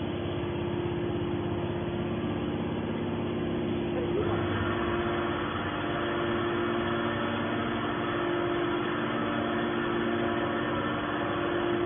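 Metal scrap baler's hydraulic power unit running steadily with a constant hum. About four seconds in, a higher hiss joins the sound and carries on.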